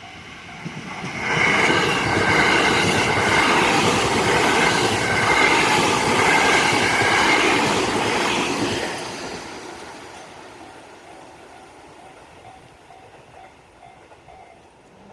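JR West 207 series electric commuter train running past, loud for about eight seconds and then fading away as it goes.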